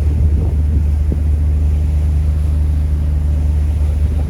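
Ferry's engine running with a steady low drone.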